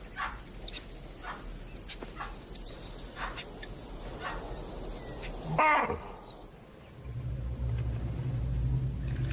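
Repeated short, sharp animal alarm calls, about two a second, with one much louder barking call that falls in pitch a little past halfway. A low steady hum comes in near the end.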